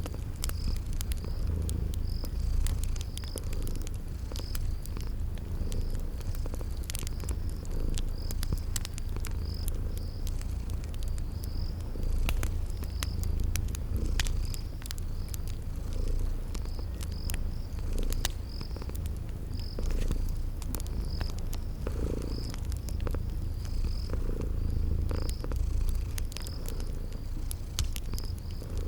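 A cat purring steadily, the purr swelling with each breath about every two seconds, layered with crickets chirping at an even pace and the scattered pops and crackles of a wood fire.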